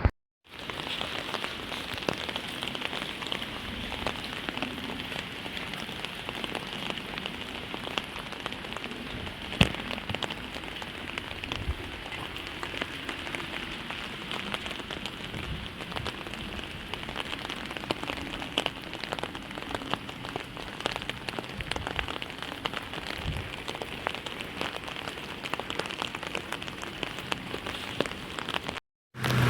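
Steady rain falling, with many small separate drop hits ticking through a continuous hiss.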